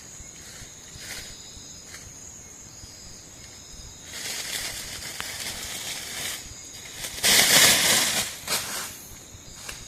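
Night insects chirring steadily at a high pitch. A rustling noise comes in about four seconds in, and a louder, short rustle follows near eight seconds.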